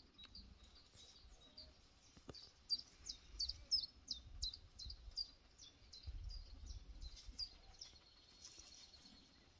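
A small bird singing faintly: a rapid series of short, high, falling notes, about three a second, that stops about two seconds before the end. A low rumble underneath.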